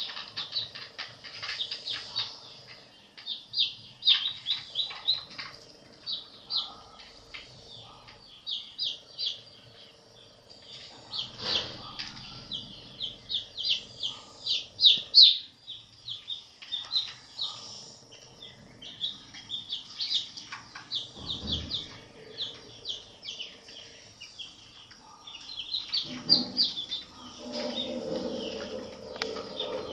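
Baby chicks peeping nonstop, a dense run of short, high-pitched chirps from several birds overlapping, with a couple of low thumps.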